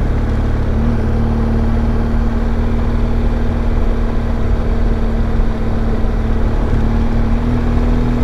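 BMW R1200GS boxer-twin motorcycle engine running at a steady cruise, heard from the rider's position along with road and wind rumble. The engine note holds steady and rises slightly near the end.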